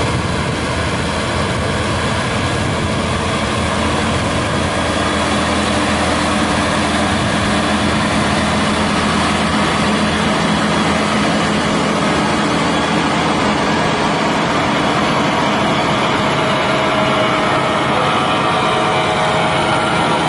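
Tractor engine running steadily, its diesel drone and mechanical clatter continuous and loud, as it works a potato planter.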